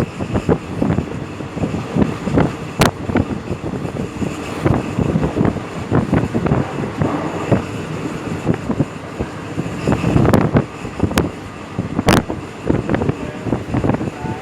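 Train running on the line, wheels and cars clattering and rattling over the rails, with a few sharp clicks standing out.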